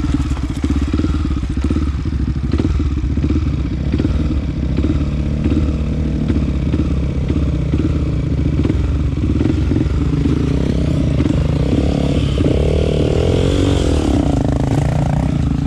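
Honda CRF 250F trail bike's single-cylinder four-stroke engine running under the rider, picked up by a helmet chin-mounted camera, with the revs rising and falling several times in the last few seconds.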